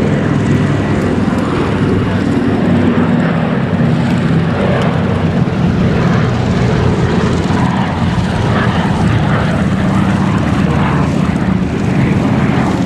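Douglas C-47 Skytrain transport planes flying by, their twin Pratt & Whitney R-1830 Twin Wasp radial engines and propellers making a loud, steady drone whose pitch shifts slightly a few seconds in.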